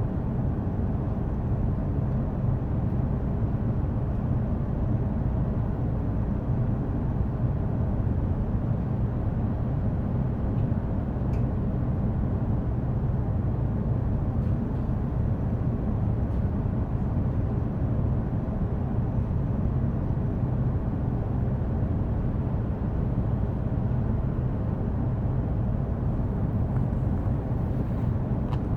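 Running noise heard inside a JR East E233 series electric commuter train: a steady low rumble that holds even throughout.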